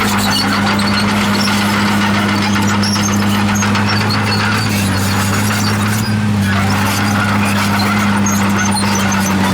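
Komatsu D51PX bulldozer's diesel engine running steadily, with high-pitched squeaking from its steel tracks as it moves.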